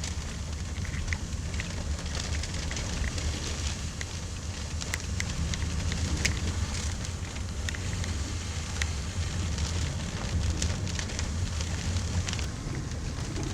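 Gusty wind buffeting the microphone in a steady low rumble, with scattered sharp ticks of raindrops striking close by, near a tornado.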